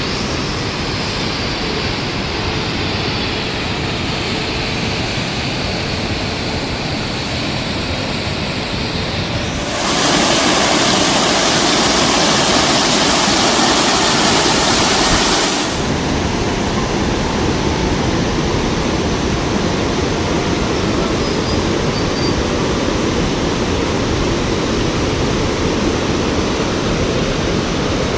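Heavy rain pouring down in a dense, steady hiss. For about six seconds in the middle it grows louder and brighter, then settles back to the earlier level.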